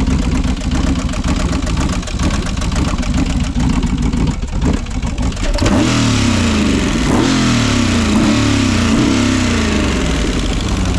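Chevrolet 6.0-litre aluminium L76 V8 running on an open engine test stand: it runs steadily for the first half, then is revved up and down again and again in quick blips of the throttle.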